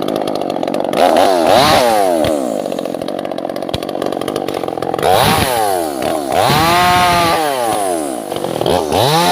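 Two-stroke chainsaw running, then revved up and let fall back several times, its engine pitch sweeping down after each rev: about a second in, around five seconds, again around seven seconds, and near the end. It is working albasia (sengon) wood.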